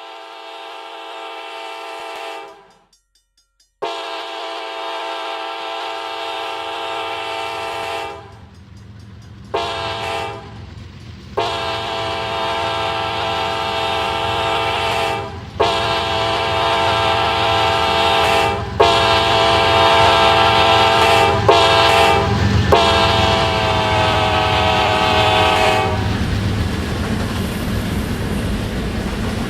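Diesel freight locomotive's air horn sounding a long series of loud blasts, a steady multi-note chord broken by short gaps, as the train approaches. The low rumble of the locomotive and train builds underneath, and the horn stops near the end while the train rumbles on.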